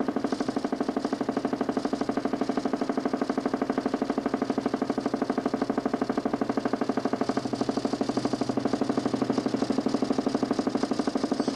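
DC motor spinning a homemade 40 cm plywood Nipkow disc in a 32-line mechanical TV, a steady mechanical drone with a rapid, even pulse about twelve times a second.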